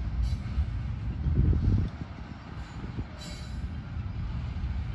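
Freight cars of a mixed train rolling past, their wheels rumbling over the rail joints. Two brief high-pitched squeals come from the train, one just after the start and one about three seconds in.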